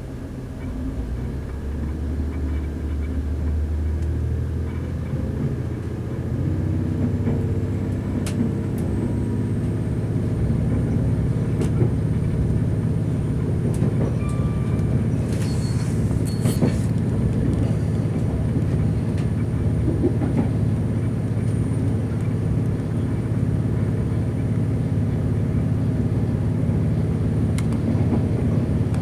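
Class 185 diesel multiple unit heard from inside the carriage: the underfloor diesel engine drones and the wheels run on the rails. The sound grows louder over the first several seconds as the train picks up speed, with a few clicks and knocks from the track along the way.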